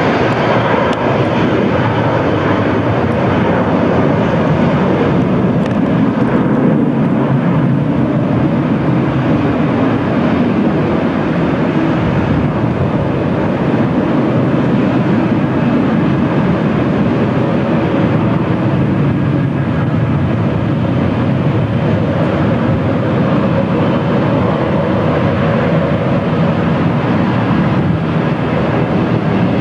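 Jet airliner engines running with a steady, loud noise.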